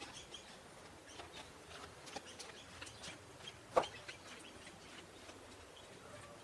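Faint, scattered chirps of wild birds, with one louder short sound just under four seconds in.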